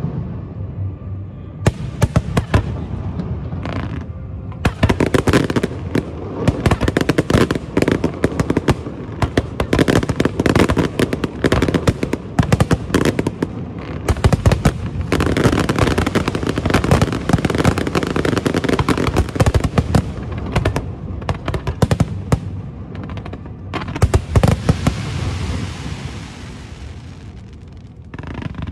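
Aerial fireworks show: a dense, rapid barrage of bangs and crackling shell bursts that barely lets up, with a rushing hiss swelling near the end.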